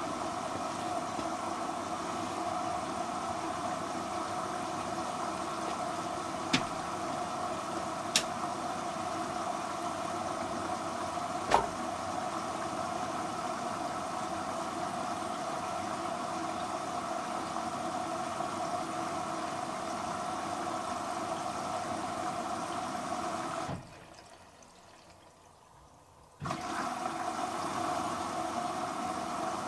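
Washer dryer filling with water through its inlet valve, a steady rushing hiss with a few sharp clicks. The flow cuts off for a couple of seconds near the end, then starts again.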